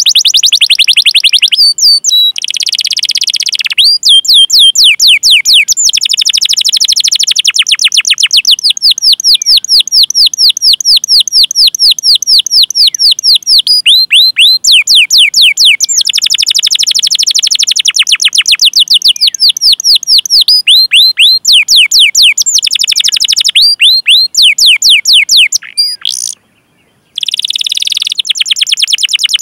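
Domestic canary singing long rolls of rapid falling chirps, about five a second, in trains broken by short pauses, with a brief silence about 26 seconds in.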